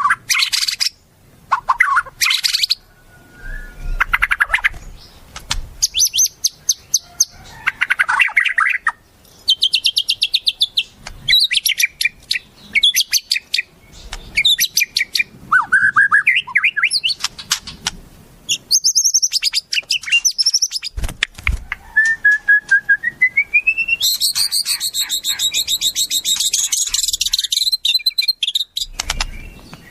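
Wild songbirds calling in quick succession: sharp chirps, fast high trills and short sweeping notes, with a rising whistle about three quarters of the way through, then a dense, high-pitched layered trill.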